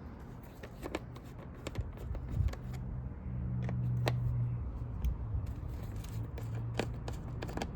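Scattered small clicks and scrapes of a screwdriver working Phillips screws out of a dirt bike's plastic panel, with a steady low hum underneath from about two and a half seconds in.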